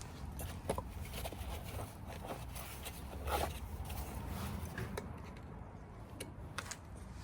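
Faint, scattered light clicks and scrapes of circlip pliers being worked onto the wheel bearing's retaining circlip in the hub, over a steady low hum.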